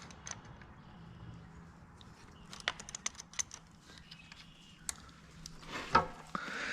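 Scattered light clicks and scrapes of a hand tool working a tight battery terminal loose, with a louder knock about six seconds in.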